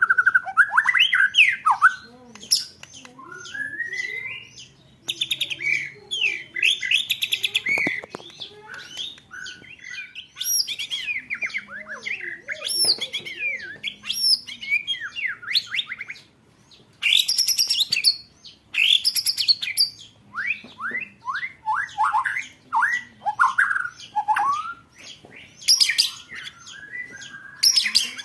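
Songbird song played as a masteran recording for competition birds: fast rolling trills of rapidly repeated notes, rising and falling whistles and sharp high chirps, in short phrases with brief pauses between them.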